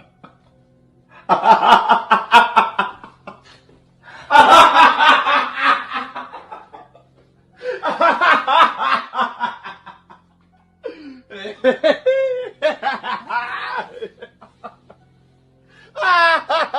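Laughter sound effects played one after another: about five separate bursts of laughing, each two to three seconds long, with short pauses between them.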